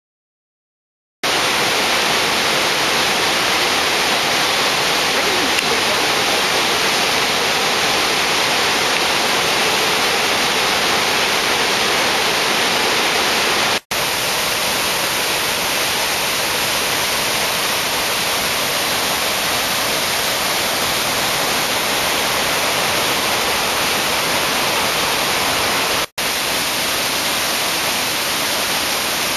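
Waterfall: a loud, steady rush of falling water, starting about a second in, with two brief dropouts where the recording is cut.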